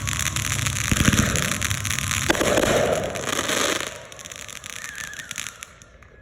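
Red Apple consumer fireworks going off in a dense run of sharp crackling pops and low thuds, which drops away about four seconds in and fades out near the end.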